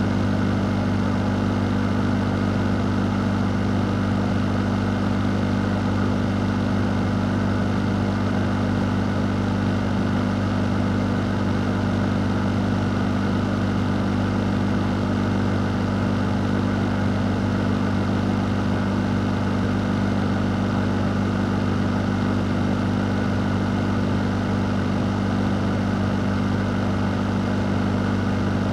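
Fan running steadily: a constant low motor hum under an even rush of moving air, with no change in speed.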